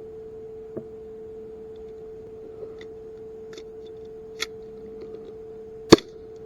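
A steady, even tone, with a few faint clicks over it and one sharp loud click about six seconds in.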